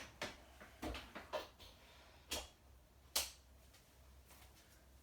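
Scattered sharp clicks and knocks as a washing machine's mains plug and cable are handled and pushed into a socket, the loudest about three seconds in.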